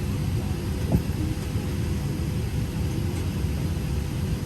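Steady low rumble of cabin noise inside a Boeing 737-700 airliner, with a single short knock about a second in.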